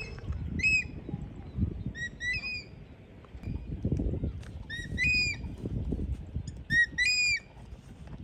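A bird calls with short, shrill, hooked notes, usually in pairs, four times over a few seconds, over low thuds and rustling of footsteps in grass.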